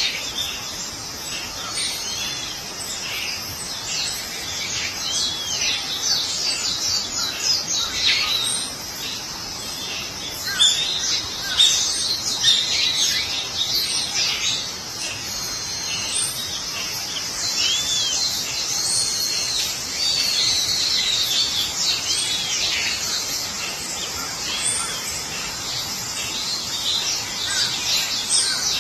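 Several birds chirping and calling at once in a dense, continuous chorus of high chirps, with a short rising-and-falling whistled note repeated every few seconds.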